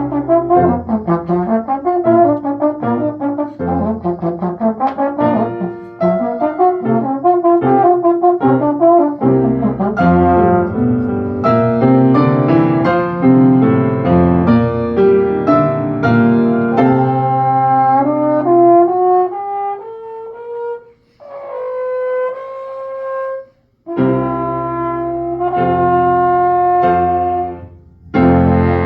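Instrumental ensemble music with a brass sound: busy phrases, then a climbing run of notes, a brief break and a held chord, then the ensemble comes back in with sustained chords.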